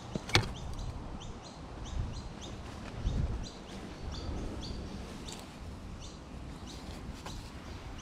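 A small bird chirping: a rapid series of short, high notes, several a second, over low handling and footstep noise, with a sharp click just after the start and a dull thump about three seconds in.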